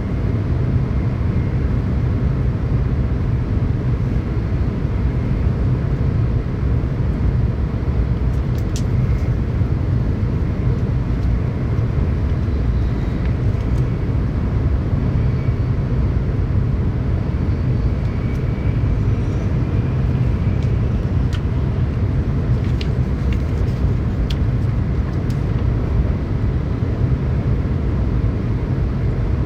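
Tokaido Shinkansen train running at speed, heard inside the passenger car: a steady low rumble of running noise with a few faint clicks.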